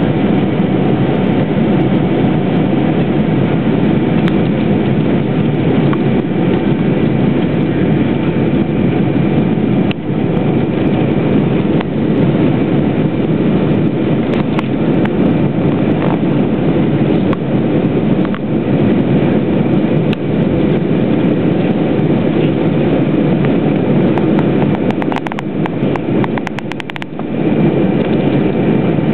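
Steady jet engine noise heard inside the cabin of a Boeing 727 during takeoff and climb, from its three rear-mounted Pratt & Whitney JT8D turbofans. The noise briefly dips, with a few crackles, near the end.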